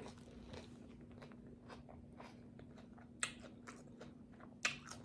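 Close-miked chewing of a taco mouthful, with soft wet smacks and crunches and a louder crunch about three seconds in and again near the end. A faint steady hum runs underneath.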